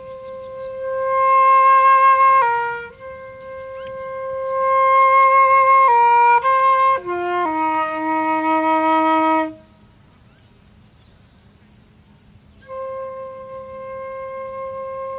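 Solo flute playing a slow melody of long held notes that swell in loudness and step downward. It breaks off for about three seconds past the middle, then comes back in on a long held note.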